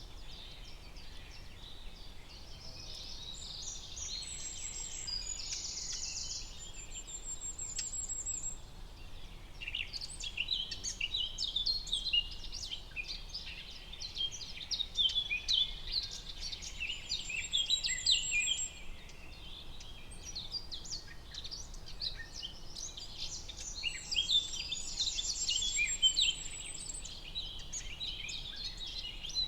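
Forest dawn chorus: several songbirds singing and chirping together over a faint steady background hiss, with rapid trills early on and again near the end and a dense run of quick chirps in the middle.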